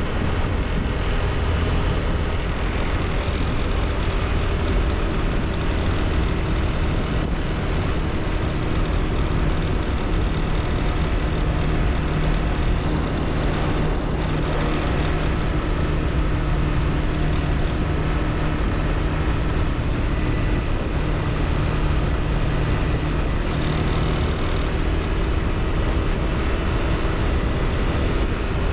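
Honda CBR300R's single-cylinder engine running at a near-constant pitch, the bike cruising at a steady speed, under a heavy rush of wind noise on the mic.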